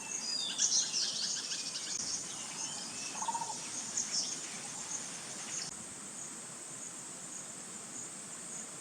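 Forest ambience: a steady, high-pitched insect trill with scattered bird chirps over roughly the first six seconds.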